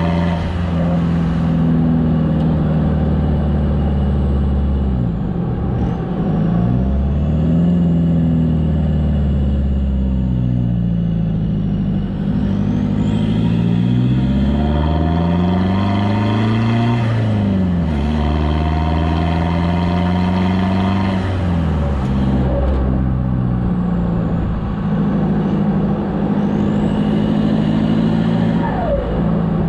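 Toyota Hilux turbo diesel running through an open exhaust with the muffler removed, heard close at the tailpipe while driving. The pitch climbs as it pulls and drops at each gear change, about four times.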